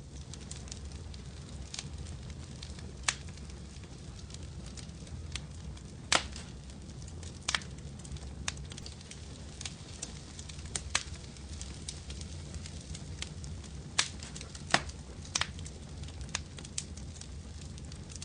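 Wood fire crackling in a fireplace: a steady low rumble of flames with irregular sharp pops and snaps, a handful of them louder than the rest.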